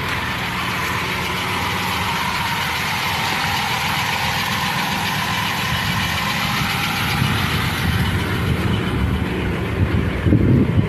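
The 1978 Pontiac Firebird's Chevy 350 V8 idling steadily, growing rougher and more uneven near the end.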